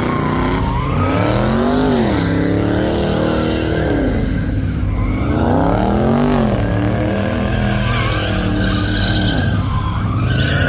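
A car's engine revving hard in repeated waves, climbing and falling back about every four seconds, with tires screeching and skidding under wheelspin during a burnout or donuts.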